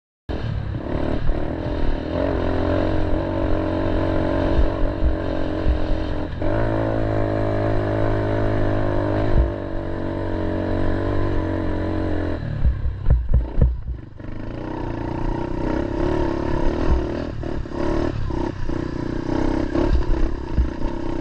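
Small pit bike engine running under load on a hill climb. The pitch steps up about six seconds in and holds; around thirteen seconds in there are knocks and clatter and a brief drop before it pulls steadily again.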